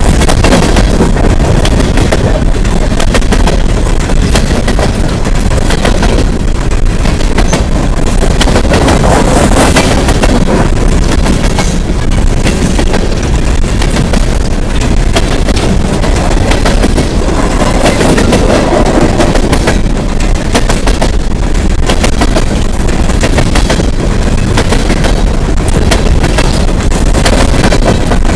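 Empty coal hopper cars of a freight train rolling past, with loud steady rumble and rattle and many sharp clanks and bangs from the wheels and empty car bodies.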